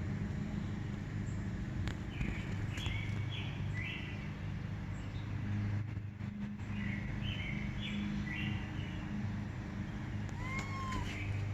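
A bird calling in repeated short chirps, each dropping in pitch, in two runs, over a steady low hum. Near the end a cat meows once.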